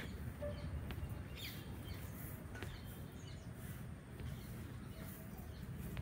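Birds chirping faintly here and there over a low, steady outdoor rumble.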